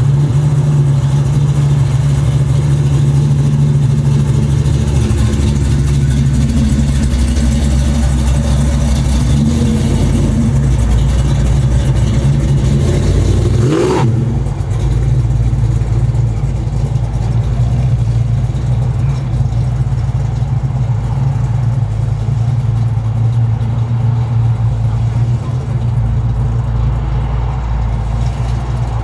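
Car engine idling with a steady low rumble. About halfway through there is a brief sweep in pitch and an abrupt change in the sound.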